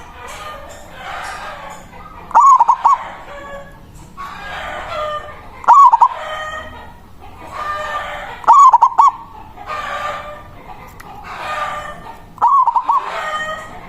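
Zebra dove (perkutut) cooing: four loud, short bursts of quick notes, about three seconds apart. Softer, hoarser bird calls fill the gaps between them.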